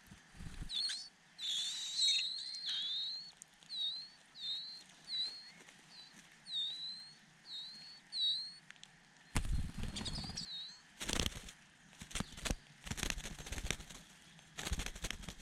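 A bird giving a series of short, high chirps, about a dozen over eight seconds. In the last third come several loud bursts of wing flapping and rustling.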